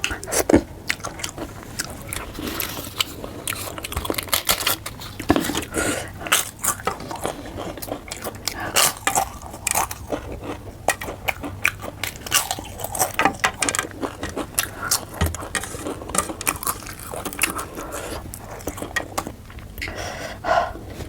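Close-miked eating of fish curry with rice: chewing and biting, with crunchy bites and a run of quick irregular mouth clicks.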